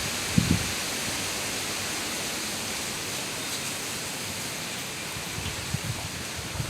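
Steady heavy rain with gusty tropical-storm wind, heard as an even rushing hiss, with a brief low gust buffeting the microphone about half a second in.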